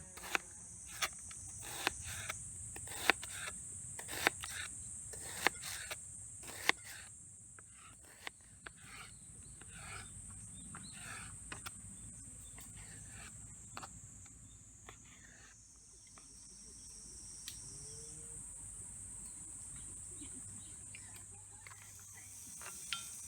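Steady high-pitched insect chorus. A series of sharp knocks comes about every half second over the first seven seconds, then only a few scattered ones.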